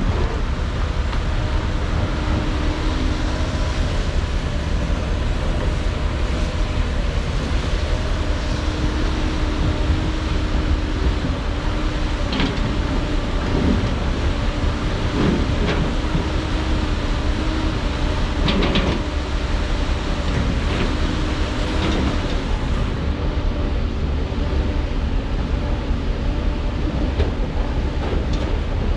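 Heavy diesel construction machinery running with a deep, steady rumble, its engine pitch wavering slightly. A few sharp metallic clanks come through around the middle.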